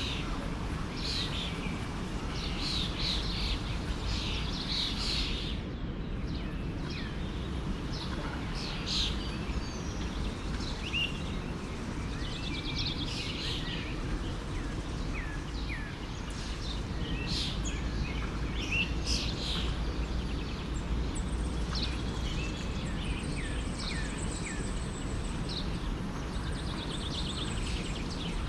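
Several birds chirping and singing in short, frequent calls over the steady rush of a forest stream.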